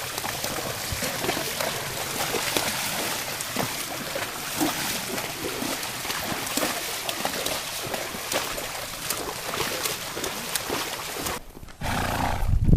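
Horses walking on a trail, many small hoof steps and crackles over a steady noisy hiss. The sound cuts off abruptly near the end.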